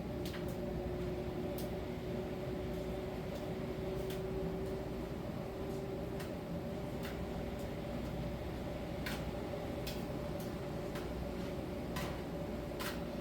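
Miele T1 heat-pump tumble dryer running in its drying phase: a steady machine hum with two held tones, and scattered light clicks and taps through it.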